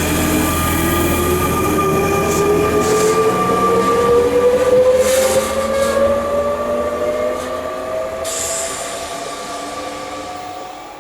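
Electric train pulling away, its traction motors whining in a tone that rises steadily in pitch, growing fainter as it leaves, with a few short hisses along the way.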